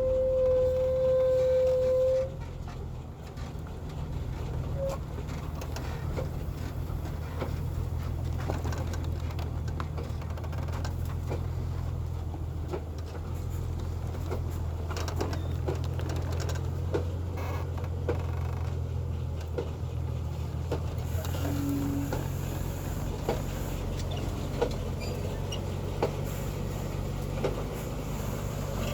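Heavy timber truck's diesel engine running with a steady low rumble, with scattered clicks and knocks. A loud steady high tone sounds for about the first two seconds, then stops.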